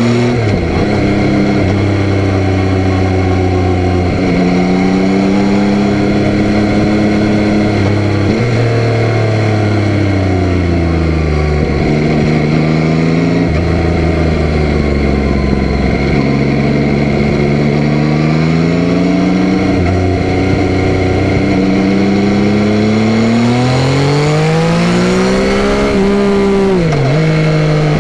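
Yamaha Tracer 9's 890 cc inline-three engine running hard while riding, its pitch repeatedly climbing and then dropping sharply at each gear change, with a few slower falls as the throttle eases and a long climb near the end.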